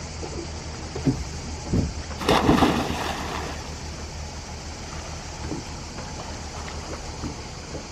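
Sea water and wind around a boat, with two short knocks and then a loud splash of water about two seconds in.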